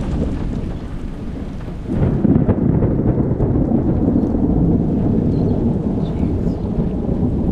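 Thunder rumbling over steady rain in a severe thunderstorm. The rumble swells suddenly about two seconds in and stays loud.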